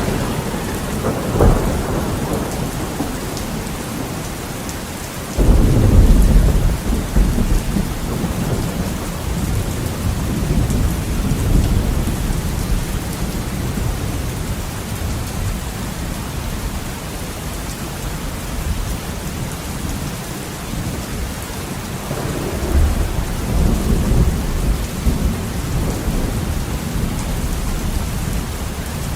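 Heavy steady rain with thunder. A short loud clap comes about a second and a half in, then a loud low rumble breaks in suddenly around five seconds in and dies away over a few seconds. Another long rumble swells and fades in the last third.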